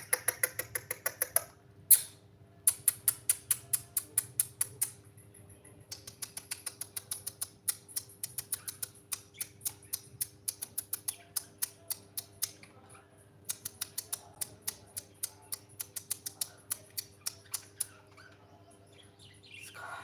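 Pet bird making rapid clicking sounds in long runs of several clicks a second, with short pauses between runs. A single sharp squawk comes about two seconds in.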